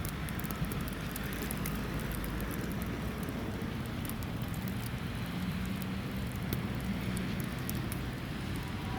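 Sasara snow-sweeper tram clearing the line with its rotating bamboo brushes. It makes a steady rushing noise over a low motor hum, scattered with a fine crackle of small ticks from the flung snow.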